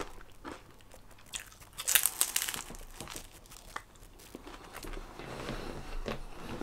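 A man chewing a mouthful of food close to the microphone: soft, irregular wet mouth clicks, with a louder cluster of them about two seconds in.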